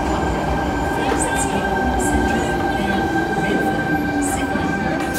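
Sydney Trains Tangara double-deck electric train pulling slowly into an underground platform: a steady low rumble of wheels on rail with a constant motor whine, and a few brief high-pitched squeaks.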